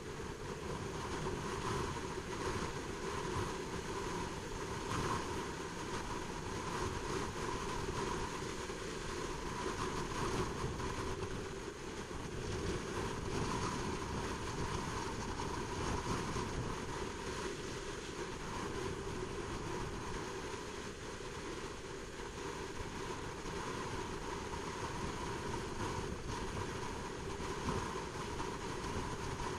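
Honda CBR600RR inline-four engine running at a steady pitch while the bike is ridden, mixed with wind rushing over the microphone.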